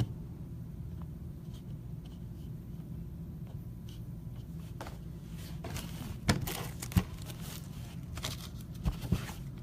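Trading card packs and cards being handled: scattered crinkling and rustling of pack wrappers and cards, with a few sharp clicks, busier in the second half, over a steady low hum.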